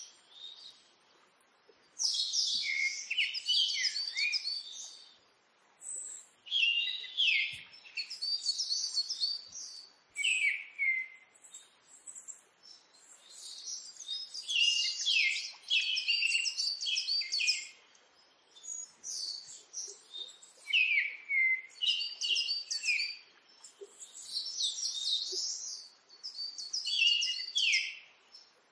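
Small songbird chirping and twittering in quick phrases of rapid notes, broken by short pauses.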